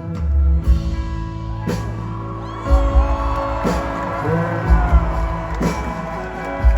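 Live rock band playing, with singing over sustained guitar and bass notes and a drum hit about once a second.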